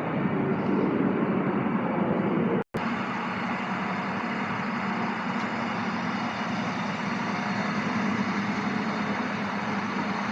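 Steady railway-station ambience: a constant low hum under a dense wash of noise. The sound cuts out completely for an instant about two and a half seconds in.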